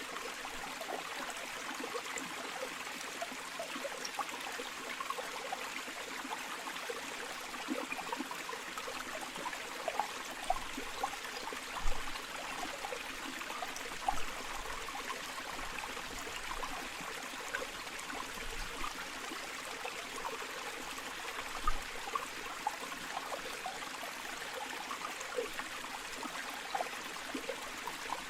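A flowing river: a steady rush of water with small bubbling and trickling splashes, and a few louder gurgling splashes.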